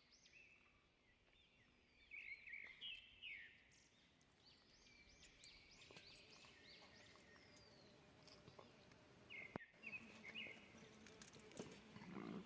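Faint bird chirping: clusters of short, arching high chirps about two seconds in, again around five to seven seconds, and near ten seconds.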